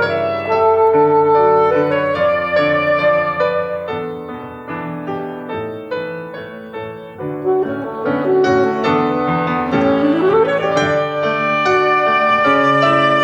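Violin and piano playing a classical-style piece, softer in the middle. About ten seconds in, the melody slides upward in pitch and then swells louder.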